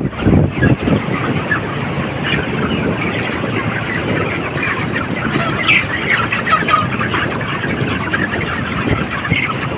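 A large flock of broiler chickens clucking and peeping, a dense continuous chatter of many birds, with a low rumble in the first second.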